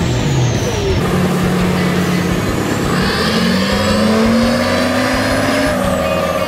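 Turbocharged diesel pickup truck engine revving, its note and a high turbo whistle rising together over a few seconds, in short cut-together clips.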